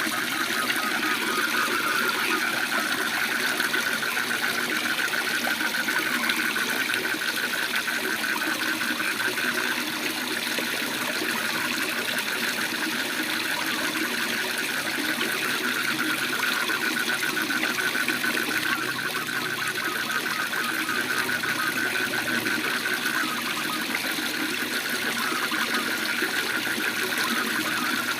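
Waterfall rushing steadily, overlaid by a continuous fast-pulsing trill of calling frogs.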